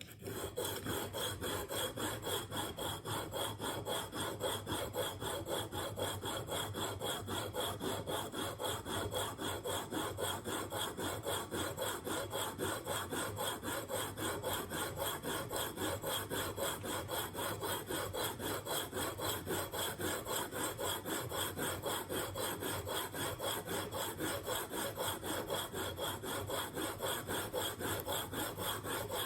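Diamond sharpening plate rubbed back and forth along the steel edge of a single-bevel broadhead clamped in a KME jig: quick, even, rhythmic scraping strokes. This is the coarse 220-grit grinding stage, taking metal off the bevel to form the edge.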